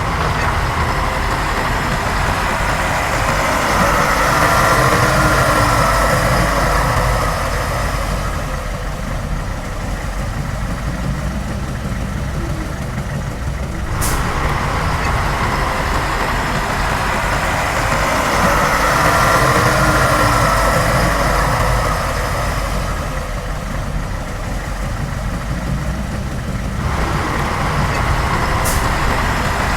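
Heavy diesel engine of earthmoving machinery running under work, swelling and easing in a repeating cycle about every fourteen seconds, with a whine over the engine note. There is a sharp click about halfway through and another near the end.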